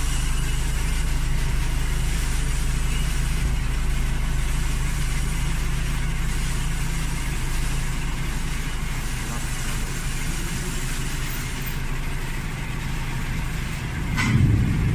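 Vehicle engine idling steadily with a low hum. Near the end the sound swells louder and a sharp knock is heard.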